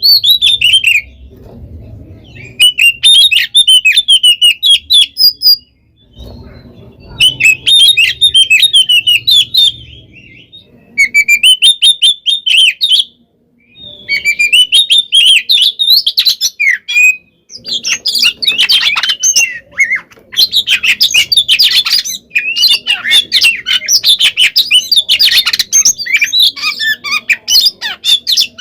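Oriental magpie-robin (kacer) singing fast, varied phrases of sharp whistles and harsh squawky notes, the aggressive fighting song of a bird in full voice. The song comes in bursts with short pauses for the first half, then runs on almost without a break.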